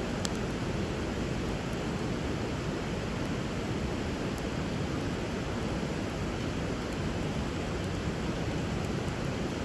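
Steady rush of river water flowing around and under a campfire, with a few faint pops of the burning wood, one a little plainer near the start.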